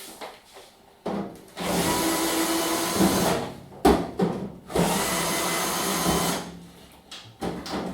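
Power screwdriver unscrewing the side-panel screws from the back of a tumble dryer, running in two main spells of about a second and a half each, with shorter bursts between.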